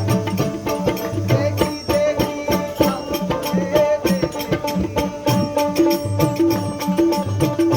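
Instrumental folk music: fast, dense hand-drum strokes with deep pitched drum notes under a steadily held melody line, without singing.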